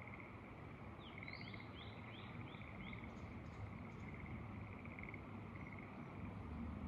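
Frogs calling in short pulsed trills, roughly one a second, in a rice-terrace field. About a second in, a bird sings a quick run of six sweeping notes. Underneath is a faint, steady low rumble of wind.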